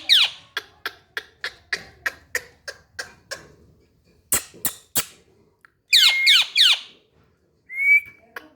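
Indian ringneck parrot calling: a run of short, sharp chirps about three a second, then louder screeches that sweep downward in pitch in the middle and later part, and one more call near the end.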